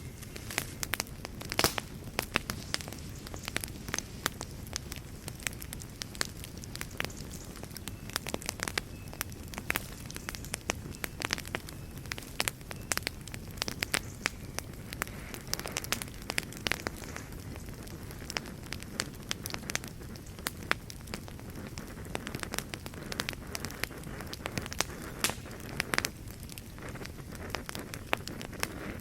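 Wood fire burning, with a steady low rumble and frequent sharp, irregular crackles and pops.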